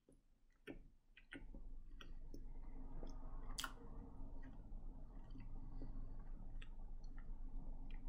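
A person chewing a mouthful of soft-bread egg salad sandwich with lips closed: quiet, wet mouth clicks and smacks at irregular intervals. About a second and a half in, a steady low rushing background noise comes up and stays.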